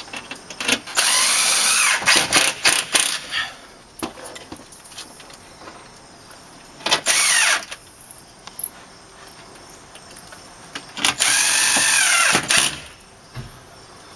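Cordless drill-driver driving screws into a storm door frame: three runs of the motor, the first stuttering in short pulses, the pitch of the motor sagging and rising as each screw bites.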